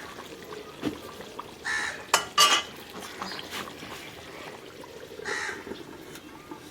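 Crows cawing, one call near the start and another near the end. About two seconds in come two sharp metallic clinks, like a cooking utensil striking a pot, the loudest sounds here.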